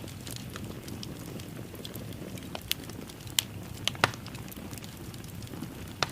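Wood fire burning in a fireplace: a steady low rumble of flames with half a dozen sharp crackles and pops scattered through it.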